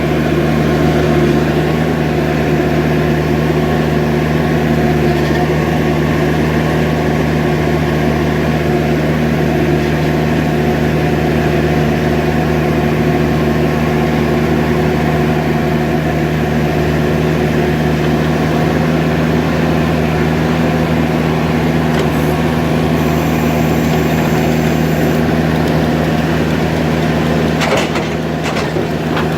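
Skid steer engine running steadily at a constant speed, with a few light clicks or knocks near the end.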